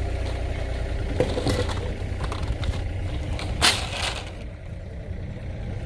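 Excavator engine running steadily while digging in sand and gravel, with short scrapes and a loud crunch about three and a half seconds in.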